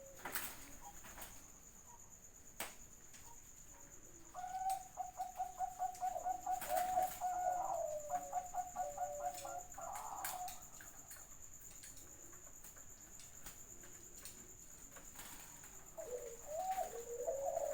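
Zebra dove (perkutut) cooing: a run of rapid, evenly pulsed notes lasting about six seconds, then, near the end, a shorter coo that slides in pitch. A steady high whine runs underneath.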